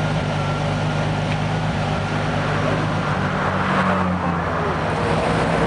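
Turbocharged BMW E30 engine running steadily, its note rising slightly about three seconds in.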